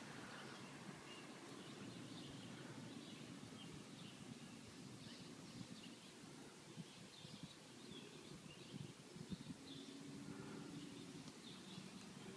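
Faint birds chirping on and off over a low, steady background rumble.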